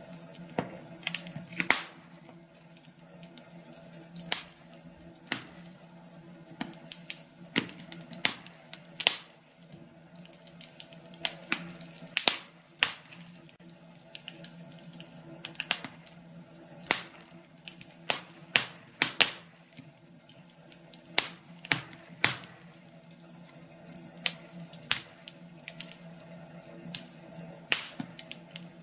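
Wood fire crackling, with irregular sharp pops and snaps, several a second at times, over a faint steady background.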